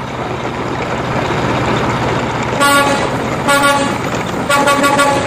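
Sound effect of a large truck's engine running steadily, with its horn tooting three times from about two and a half seconds in.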